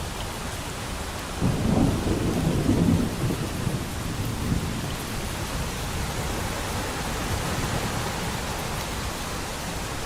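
Steady rain with a roll of thunder that breaks in about a second and a half in, is loudest over the next two seconds, and rumbles away into the rain.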